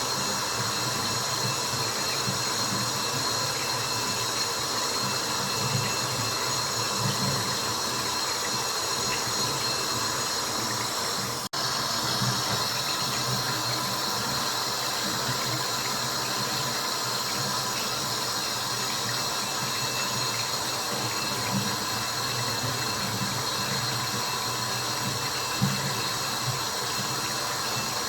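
Continuous water-drop white noise: a steady, even wash of dripping and running water, broken by a brief cut about eleven seconds in.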